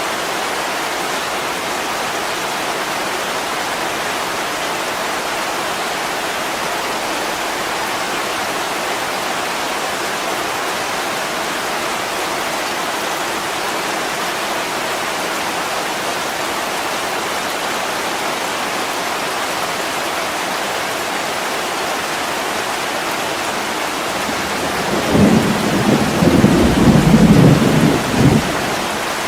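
Heavy rain pouring steadily on window glass, with a low rumble of thunder lasting about three seconds near the end, louder than the rain.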